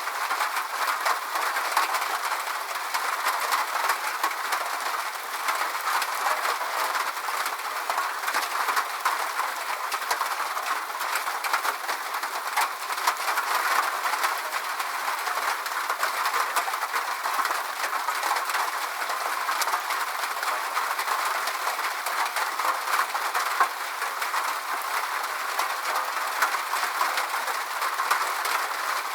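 Steady rain falling, an even hiss of drops with fine crackles throughout and no low rumble.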